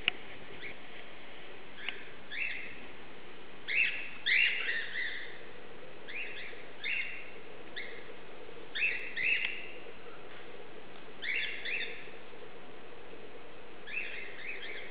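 Small birds chirping in short clusters of two or three quick calls every second or two, over a steady faint hum.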